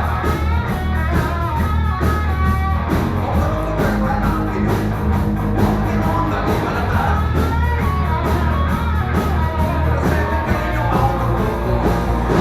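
Rock band playing with electric guitar, bass and drums, with a voice singing over it. The song ends abruptly near the end.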